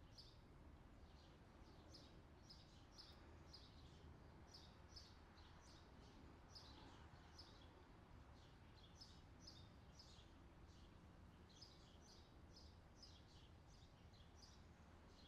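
Faint outdoor summer ambience soundtrack: small birds chirping, short high chirps repeating a few times a second, over a steady low rumble.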